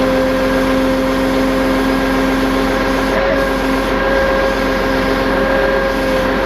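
Tow truck's engine running steadily with a constant whine over it, without a break.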